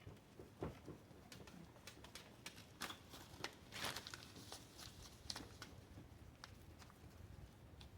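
Faint, scattered light clicks and taps, as of small tools and materials being handled during headlight sanding work.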